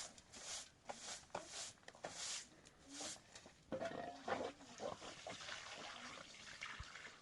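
Crunching steps in snow, about two a second, fading out after about three seconds. Faint, short animal calls follow in the middle.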